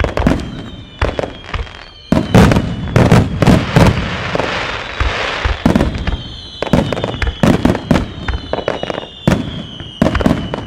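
Wide starmine fireworks display: a rapid barrage of shells bursting close by, sharp bangs in quick succession. About two to six seconds in it thickens into a dense crackle, and a high tone slides slowly down in pitch over the bangs.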